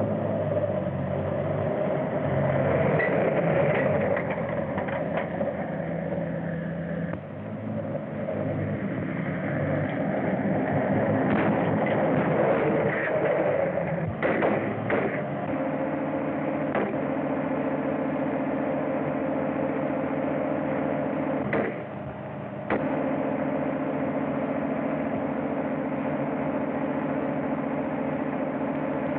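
An engine running with a steady drone and a few sharp clicks, on an early sound-film soundtrack.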